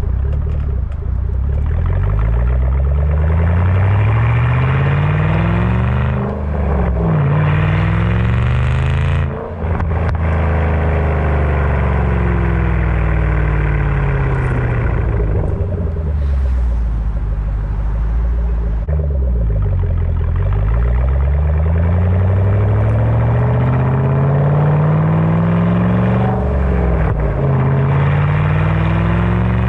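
Shelby GT500's supercharged V8 through a Borla ATAK exhaust, accelerating hard with engine speed climbing and dropping sharply at gear shifts about six and nine seconds in. It then winds down for several seconds as the car slows, and pulls up through the revs again twice more, with another shift near the end.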